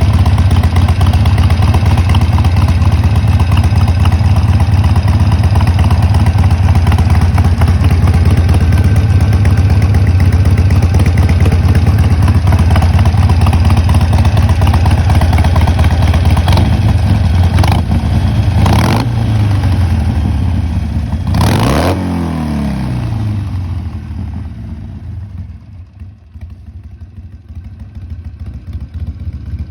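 Harley-Davidson Sportster V-twin running loud and steady through a custom-built exhaust. In the last third the throttle is blipped twice, the revs rising and falling each time, and then the engine note falls away much quieter.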